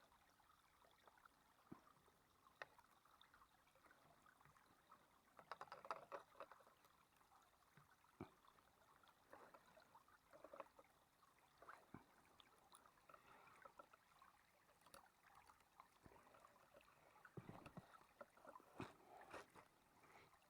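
Near silence with faint scattered rustles and light clicks, a few small clusters of them about a quarter of the way in and again near the end.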